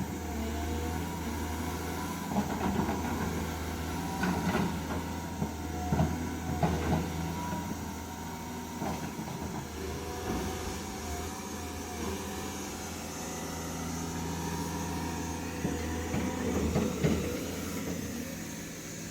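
Excavator's diesel engine running steadily, with a higher whine that shifts in pitch as it works. Scattered knocks and clanks are heard over it, thickest in the first seven seconds and again near the end.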